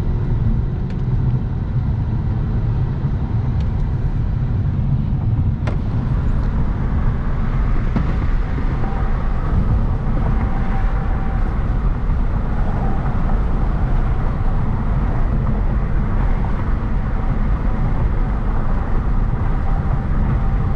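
Hyundai Genesis Coupe 3.8 V6 driving at a steady pace: a continuous low rumble of engine and road noise.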